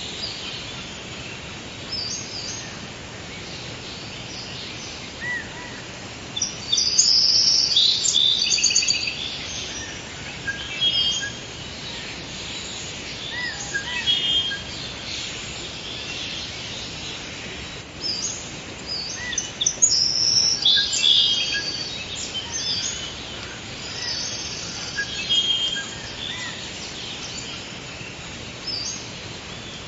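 Forest ambience: several birds chirping and calling over a steady background hiss. The bird song is busiest and loudest about seven to nine seconds in and again around twenty seconds in.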